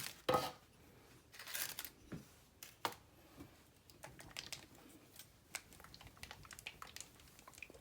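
Light handling noises: scattered small clicks and brief rustles of objects being picked up and moved about, with a louder rustle about one and a half seconds in.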